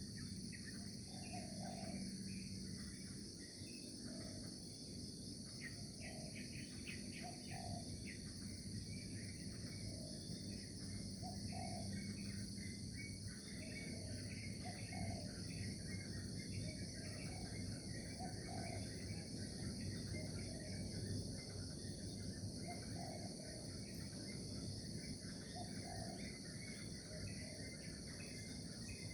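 Nature ambience: a steady high-pitched chorus of crickets, with scattered bird chirps and short lower calls repeating every second or two, over a low steady hum.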